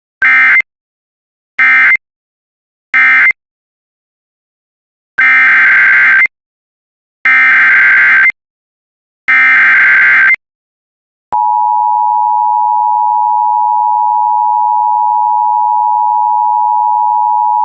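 Emergency Alert System data bursts: three short warbling SAME bursts, typical of the end-of-message code closing the first warning, then three longer SAME header bursts announcing the next warning. From about 11 seconds in, a single steady tone near 1 kHz begins, the NOAA Weather Radio alert tone, and holds to the end.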